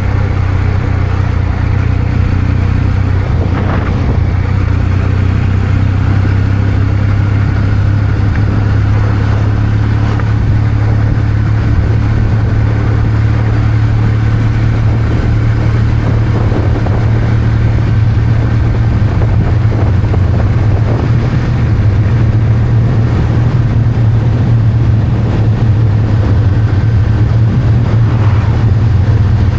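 Kawasaki W800's air-cooled parallel-twin engine running steadily while the motorcycle is ridden, a low, even engine note with little change in revs.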